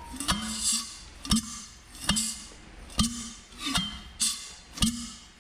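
Rebuilt Mazda RX-7 rotary engine being turned over by hand, giving a regular puff of compression with a short hiss about once a second as each rotor face comes up on compression: a sign of plenty of compression.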